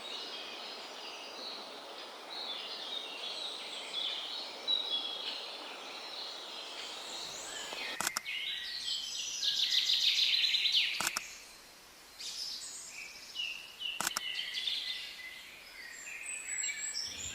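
Several songbirds singing and calling over each other, with a louder rapid trill about ten seconds in. Three sharp clicks come about three seconds apart in the second half.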